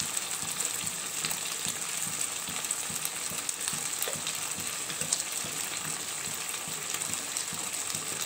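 Chicken pieces frying in a little oil in a pan, a steady sizzle with scattered small crackles.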